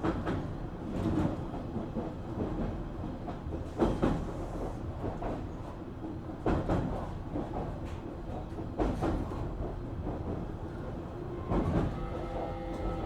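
Cabin running sound of a JR Kyushu 817 series electric train: a steady rumble with wheels clacking over rail joints in pairs every couple of seconds. Near the end, a whine of several tones from the traction motors sets in and falls slowly in pitch.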